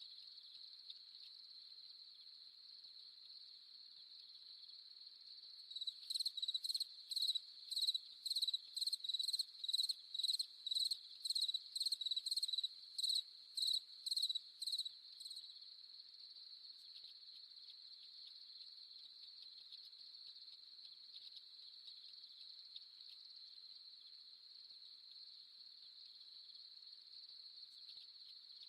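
A chorus of crickets trilling steadily on one high pitch at night. About six seconds in, a louder, closer chirping call joins over it, repeating about twice a second, and stops some nine seconds later.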